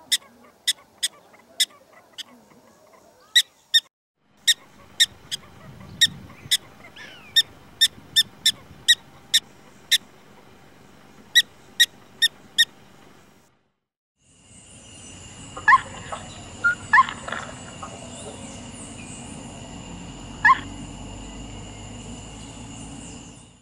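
Prairie dog barking: a run of short, sharp, high chirps, roughly two a second, that stops about 13 seconds in. A different background then comes in: a steady high drone with three brief calls.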